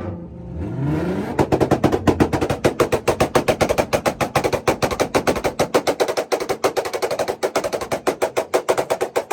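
A car engine revs up, then holds on a two-step launch-control rev limiter, its exhaust crackling and banging in a rapid, even string of pops about ten a second.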